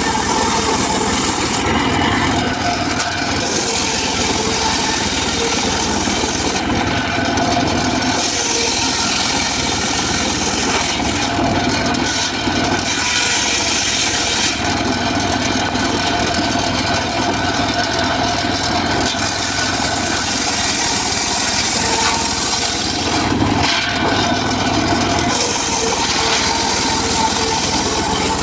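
Homemade circular saw running steadily, its blade sawing through mahogany wood; the high-pitched cutting hiss comes and goes several times over a constant machine hum.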